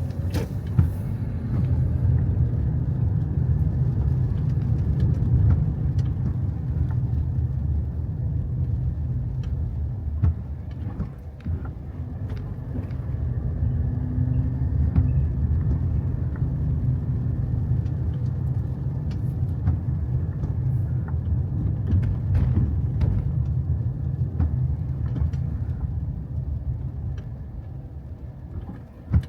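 Car on the move: a steady low road rumble, with scattered light clicks and taps.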